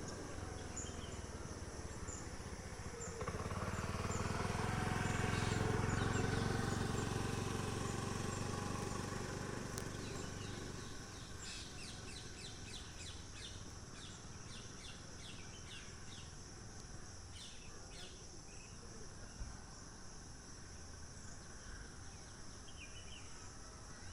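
Outdoor ambience with small birds chirping in short repeated runs over a steady background hiss. A low rumble swells and fades in the first half.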